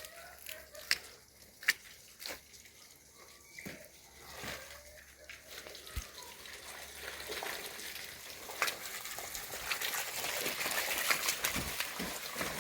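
A few light knocks and clicks, then water running with a hiss that builds over the second half.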